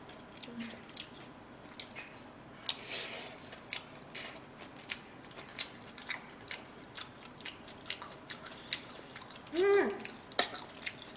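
Close-miked chewing of fried rice: irregular wet mouth clicks and smacks throughout, with one short hummed vocal sound near the end.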